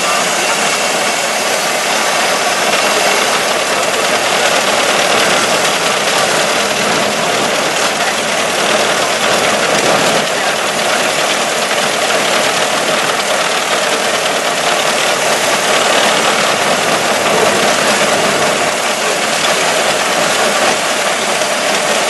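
Ford Model T's four-cylinder engine running steadily as the car drives along the road, under an even rush of wind and road noise.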